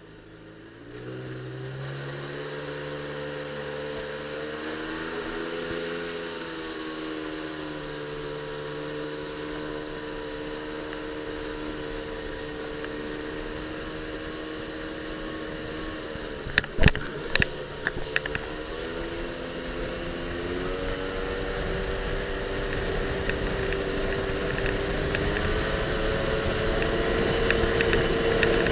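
Jet ski engine revving up about a second in and running steadily. About two-thirds of the way through it dips briefly under a cluster of sharp knocks and rattles, then picks up again and grows louder toward the end, with rising wind and water noise.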